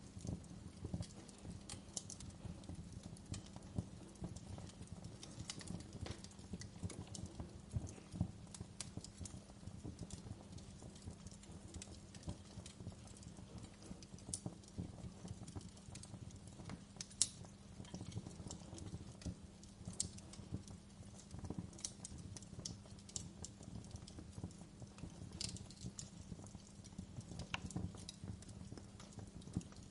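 Wood fire crackling, with irregular snaps and pops over a low steady rumble; the sharpest snap comes a little past halfway.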